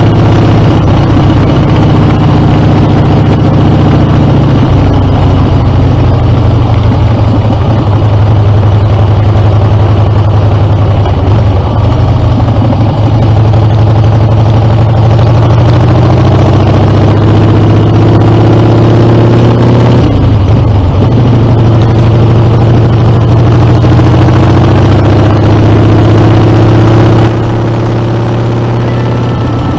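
Harley-Davidson Dyna's air-cooled 45-degree V-twin running through a Screamin' Eagle exhaust under way, its note dropping and picking up again a few times as the throttle is eased and reopened. It gets somewhat quieter near the end.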